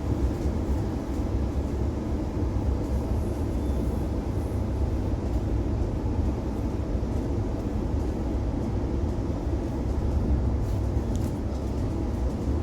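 Inside the carriage of a moving Oscar H set electric intercity train: a steady low rumble of the train running along the track, with a few faint ticks.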